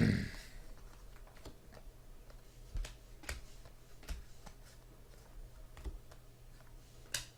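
Scattered light clicks and taps, a handful spread irregularly through the stretch, over a low steady hum.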